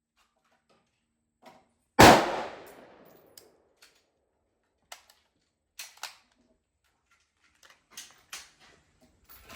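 A single AR-15 gunshot in 5.56 about two seconds in, sharp and loud with a short echoing tail, followed by a few faint clicks and knocks.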